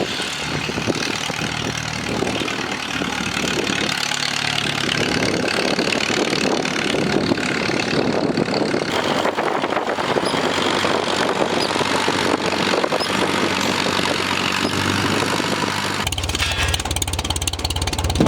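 Farmall M tractor engine running steadily, with a broad rushing noise over it. About two seconds before the end the sound turns heavier and lower.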